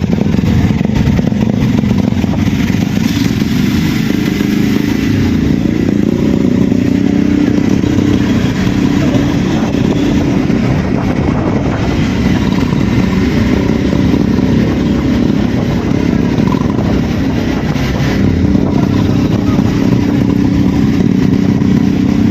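Motorcycle engine running steadily while riding, a continuous hum that shifts a little in pitch.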